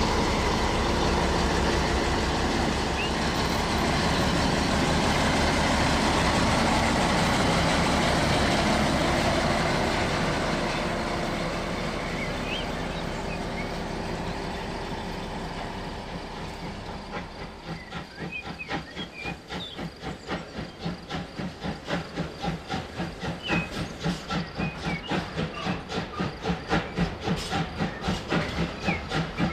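Model steam locomotive sound: a steady hiss of steam that fades away, then steam exhaust chuffs that start about halfway through. The chuffs beat about twice a second and grow louder toward the end.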